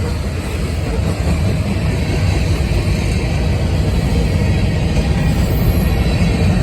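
CSX mixed freight train rolling past, a loud steady rumble of wheels on the rails.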